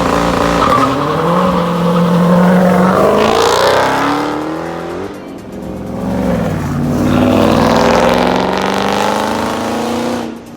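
Car engine revving hard under acceleration, its pitch climbing, easing off about five seconds in, then climbing again; cuts off suddenly at the end.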